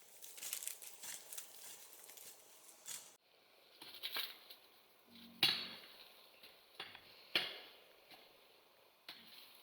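Irregular light clicks and crackling, then a few separate sharper knocks in the second half, the loudest about halfway through.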